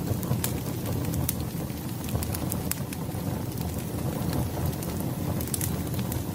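Wood fire burning: a steady low rush of flames with irregular sharp crackles and pops.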